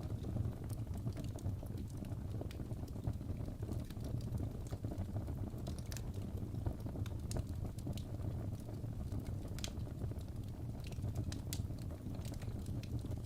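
Fireplace fire crackling: a steady low rumble of flame with scattered sharp pops and snaps at irregular intervals.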